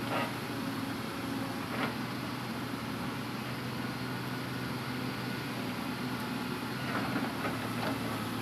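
Diesel engine of a Hitachi Zaxis 200-5G excavator running steadily while it loads logs, with a few faint knocks about two seconds in and again near the end.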